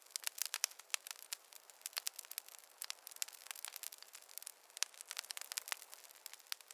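Wood campfire crackling: irregular sharp pops and snaps, several a second, over a faint hiss.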